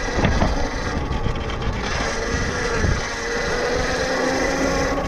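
Electric dirt bike motor whining with a steady tone that climbs slightly in pitch over the last couple of seconds, over wind and road rumble on the microphone.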